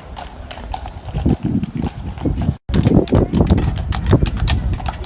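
Horse hooves clip-clopping at a walk, a steady run of sharp hoof strikes, with a low rumbling noise under them through the middle. The sound cuts out completely for a split second about halfway through.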